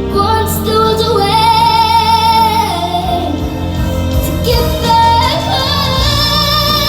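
A woman singing long held notes with vibrato over instrumental accompaniment.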